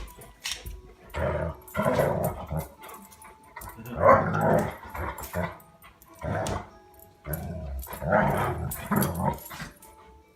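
A dog making short growls and barks in rough play with people, in a run of separate bursts about one every second or two.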